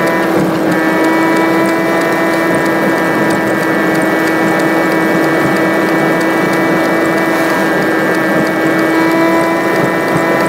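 A steady droning hum from the car while driving, held at one pitch with a row of overtones over a rushing noise, as from sped-up engine and road noise.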